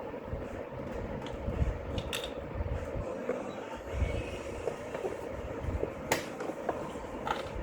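A few sharp clicks and knocks of hand tools and plastic parts being worked loose, over a steady low rumble.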